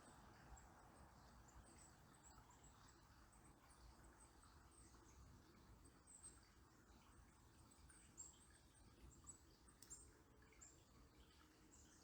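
Faint, thin, high-pitched bird chirps scattered throughout, a few a little louder near the end, over a soft low hiss of distant river water.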